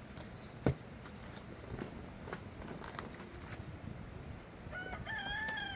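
A rooster crowing once near the end, one long held call. Before it, scattered faint knocks, with one sharp knock about a second in.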